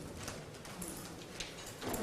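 Quiet classroom room noise in a pause between dictated phrases, with a faint light tap about one and a half seconds in.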